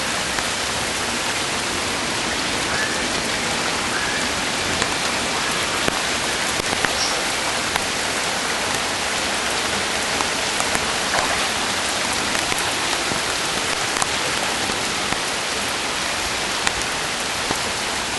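Heavy rain falling steadily: a dense, even hiss of rain on surfaces, with a few faint drop taps standing out.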